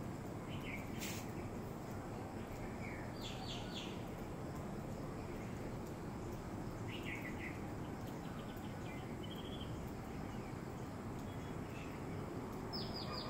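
Small birds giving short, high chirps a handful of times over a steady outdoor background hiss, with one sharp click about a second in.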